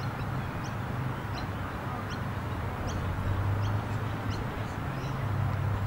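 A bird chirping over and over, short high chirps at an even pace of a little more than one a second, over a steady low hum.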